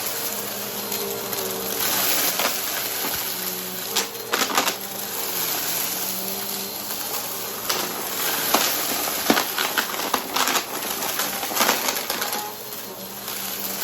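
Brushroll vacuum cleaner running on carpet, a steady motor hum under a high airflow hiss, with debris clicking and crunching as it is sucked up.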